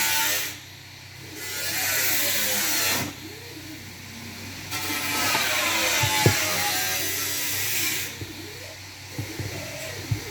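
Small high-speed power tool running in three bursts, its pitch wavering up and down as it takes load; the first burst stops about half a second in, the second runs for about a second and a half, the last for about three seconds.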